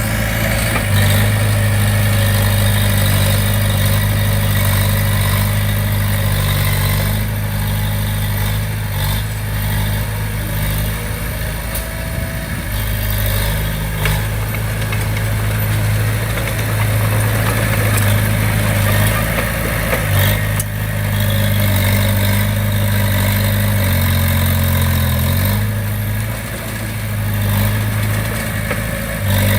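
Komatsu D20P bulldozer's diesel engine running steadily under work, its note dipping lower for a moment a few seconds before the end, with a few light clanks.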